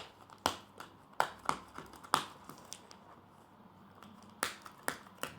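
Sharp plastic clicks and snaps, several at irregular intervals, as a hard-to-open plastic surprise-toy package is pried and pressed at.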